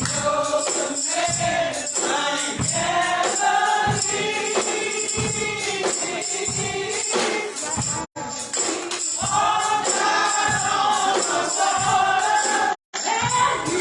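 Gospel singing by a choir with a tambourine keeping the beat. The sound cuts out completely for a split second twice.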